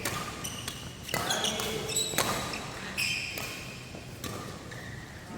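Badminton rally: rackets striking a shuttlecock about once a second, sharp clicks, with short high squeaks of shoes on the court floor between the shots.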